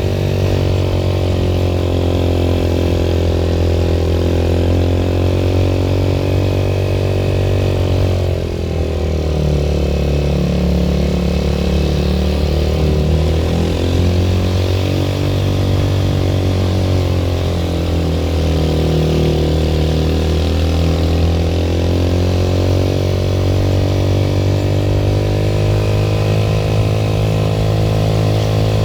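A vehicle engine running steadily under load on a mountain track. Its pitch dips briefly about eight seconds in and wavers gently through the middle.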